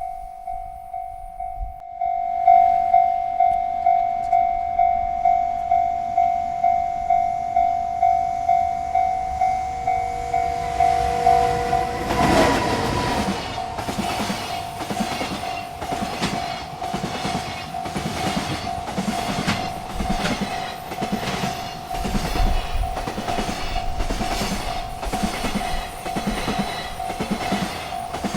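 Railroad crossing bell ringing steadily about twice a second. From about twelve seconds in, a freight train rolls through the crossing, its wheels clacking over the rail joints in a steady rhythm while the bell keeps ringing.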